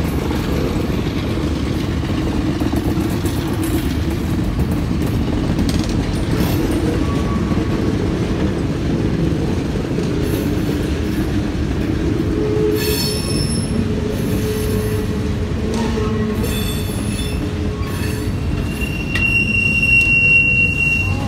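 Freight cars rolling past over a road crossing: a steady rumble of wheels on rail, broken by short metallic squeals. Near the end comes a louder, steady high-pitched wheel squeal.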